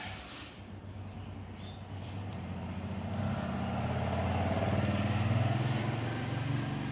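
A motor vehicle's engine going by, a low hum that swells to its loudest about five seconds in and then eases off slightly.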